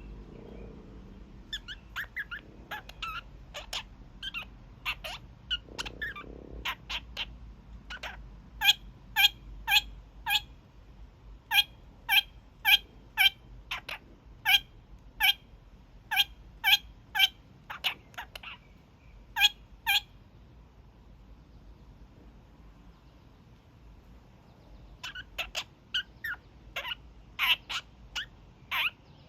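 Young male kakariki (New Zealand parakeet) giving its honking calls: short sharp notes about two a second in long runs. They stop for about five seconds after twenty seconds, then start again.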